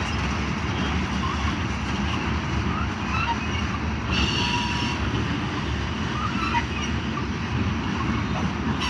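Freight train cars rolling past, a steady low rumble of wheels on rail with brief high squeaks scattered through it.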